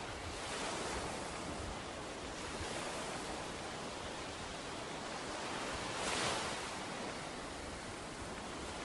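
Ocean surf washing onto a beach: a steady rush of breaking waves, swelling loudest about six seconds in.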